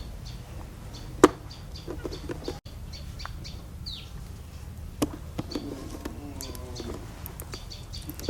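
Small birds chirping in short repeated runs of high notes, with one falling chirp near the middle, over a low steady background rumble. Two sharp clicks, one about a second in and one about five seconds in.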